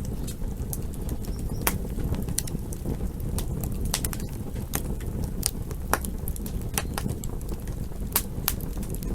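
Campfire burning with a steady low rumble and irregular sharp crackles and pops, several a second.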